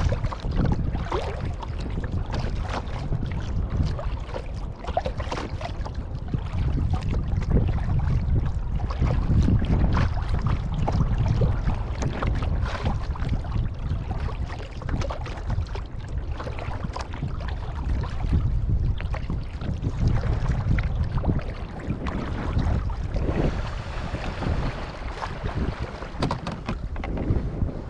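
Kayak paddling: irregular splashes of the paddle and water against the hull, with heavy wind rumble on the microphone.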